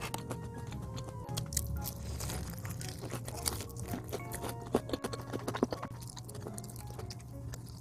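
Close-up crunching and chewing of seasoned fried chicken, with sharp crisp bites scattered through, over light background music.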